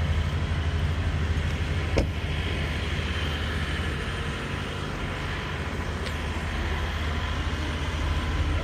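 Semi truck's diesel engine running steadily at low speed, heard from inside the cab, with a sharp click about two seconds in.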